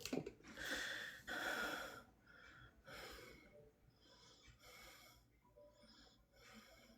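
A person breathing close to the microphone: short noisy breaths, the first two in the opening two seconds the loudest, then a run of fainter ones about every half second to second.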